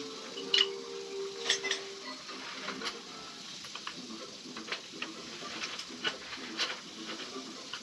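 Scattered light clicks and metallic clinks, irregular and sharp, over low background noise.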